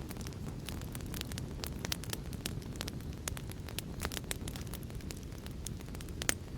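Fireplace fire crackling: a steady low rumble under many irregular sharp snaps, with one louder pop near the end.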